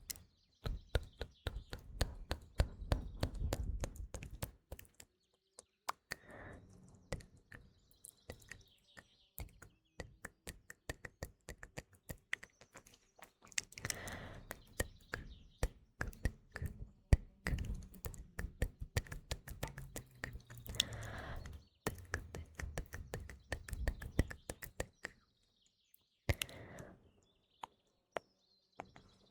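Close-miked ASMR mouth sounds: a dense, irregular run of small wet clicks and pops. Faint birdsong chirps in the background.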